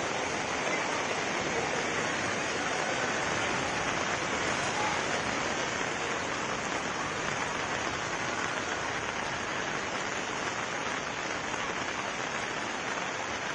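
Heavy monsoon rain and rushing floodwater: a steady, even hiss without pauses.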